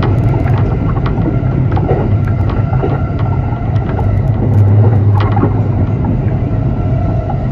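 Musashino Line electric commuter train running along the track, heard from inside the front car: a steady low rumble with a faint steady tone and scattered clicks from the wheels on the rails. The rumble swells briefly about four to five seconds in.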